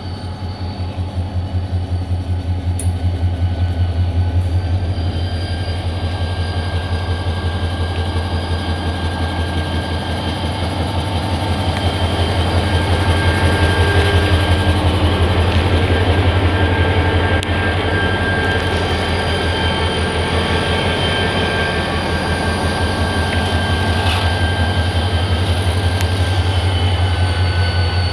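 Diesel-hauled passenger train passing close by: a deep, steady, pulsing engine throb under the rumble of coaches on the rails.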